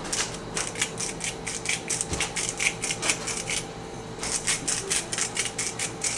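Salt being dispensed over raw chicken: a quick run of dry ticks, several a second, that pauses briefly about two thirds of the way through, then resumes.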